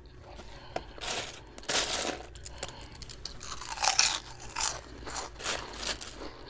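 A person chewing and biting into crusty toasted hero-roll bread: a run of crunches, the loudest about two and four seconds in.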